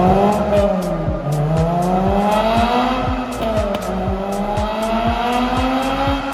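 Lotus Elise 111R's tuned 1.8-litre Toyota four-cylinder accelerating hard on a chassis dyno through a sports exhaust, its pitch climbing steadily and dropping back at each gear change, twice. Music with a steady beat plays underneath.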